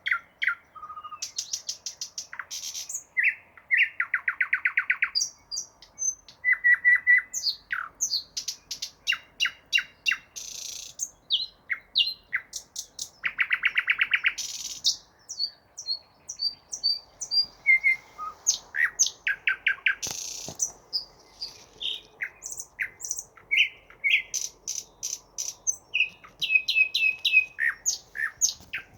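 A songbird singing a long, varied song of whistled notes, rapid trills and buzzy runs, phrase after phrase with few pauses.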